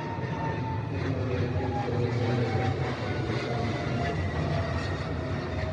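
Boeing 777-300ER's twin GE90-115B turbofan engines running loud and steady as the jet passes: a deep rumble under whining tones that slowly fall in pitch.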